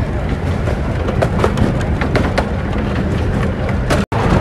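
Steady low rumble of a moving miniature steam railway train heard from on board, with irregular sharp clicks and knocks from the wheels and carriages; the sound cuts out for an instant near the end.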